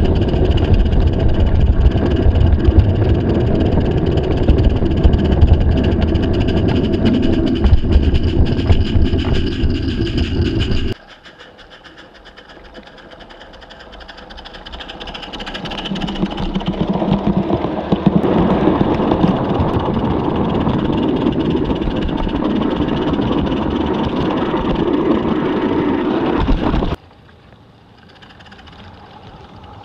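Small live-steam garden-scale train running along its track, heard from close by: a steady rumble and clatter. It cuts off suddenly about 11 seconds in, builds up again a few seconds later, and cuts off suddenly near the end.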